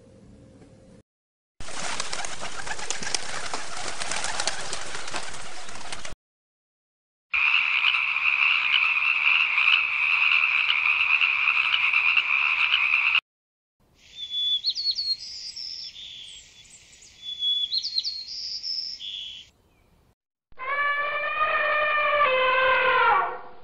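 A run of separate animal sounds. A steady hiss lasts about four seconds, then a toad's steady high-pitched trill for about six seconds, then a few short rising chirps, and near the end an elephant trumpeting.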